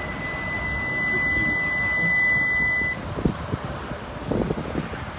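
Steady, high-pitched electronic beep tone that cuts off suddenly about three seconds in, leaving low rumbling noise with a few soft knocks.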